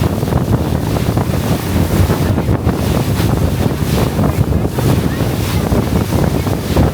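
Wind buffeting the microphone on a moving motorboat, over the steady rush of water and engine; the boat is crossing choppy sea.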